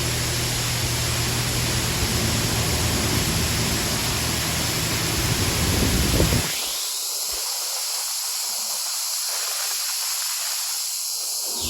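Touchless car wash spray nozzles jetting liquid onto a car, a steady hiss of spray, during what is taken to be the Rain-X stage. The low rumble under the hiss drops away about six and a half seconds in.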